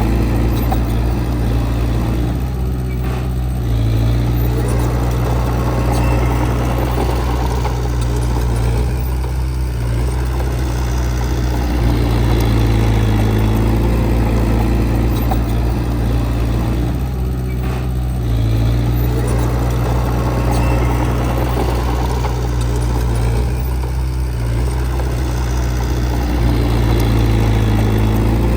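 Diesel engine of heavy earthmoving equipment running with a steady low drone, easing off and picking up again several times as the machine works.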